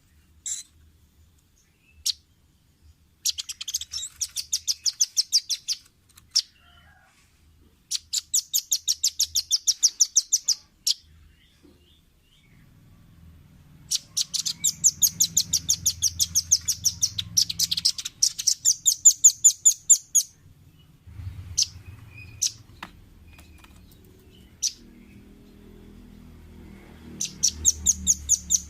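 Velvet-fronted nuthatch calling in fast rattling trills of sharp, high, evenly repeated notes, several bouts a few seconds long with single chips between them.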